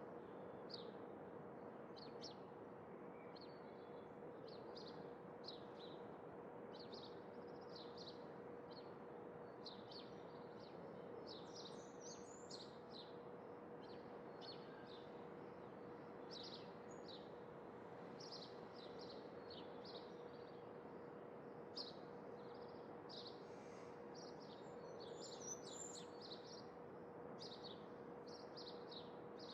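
Small birds chirping in short, frequent calls over a steady soft background hiss, with a faint steady hum underneath.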